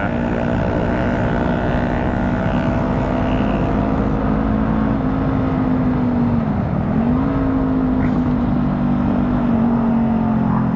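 Motorcycle engine running at a steady cruising pace, heard from on the bike, over a low steady rush of wind and road noise. About six and a half seconds in, the engine note dips briefly and climbs back up.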